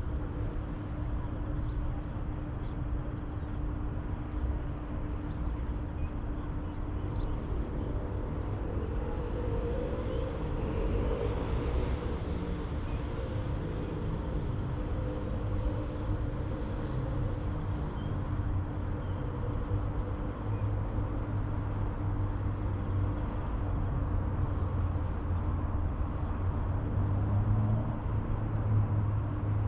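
Outdoor ambience carrying the low, steady rumble of a motor engine, with a steady hum, growing louder over the last ten seconds.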